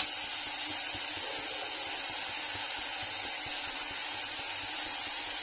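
Chopped onions and tomatoes frying in oil in a steel kadai: a steady, even sizzle.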